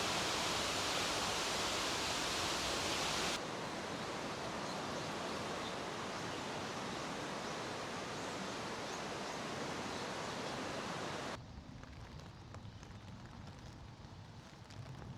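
Steady, even rush of Jeongbang Falls, a coastal waterfall. The level steps down abruptly a few seconds in. About eleven seconds in it cuts to much quieter outdoor ambience.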